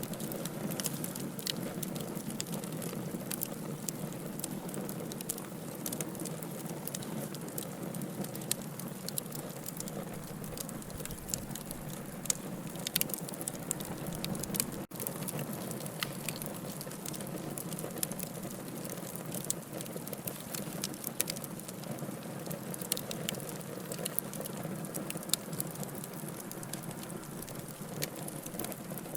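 Wood fire crackling in a fireplace: a steady low hiss with frequent sharp pops and snaps scattered throughout. About halfway through, the sound drops out for an instant.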